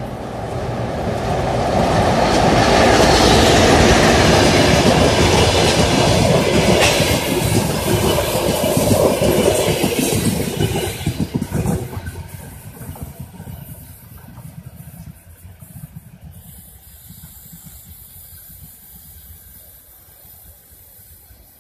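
Diesel-hauled passenger train passing close by, its coaches' wheels clattering over the rail joints. The sound is loudest for the first ten seconds or so, then fades steadily as the train draws away.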